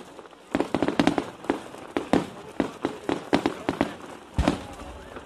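Fireworks going off in a rapid, irregular series of sharp bangs and crackles. One deeper, heavier boom comes about four and a half seconds in.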